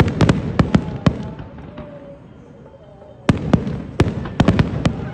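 Fireworks going off: rapid sharp bangs in two volleys, one in the first second and another starting about three seconds in.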